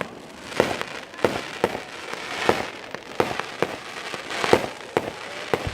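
Aerial fireworks bursting in a rapid series of sharp bangs, nearly two a second, with crackling between the bursts.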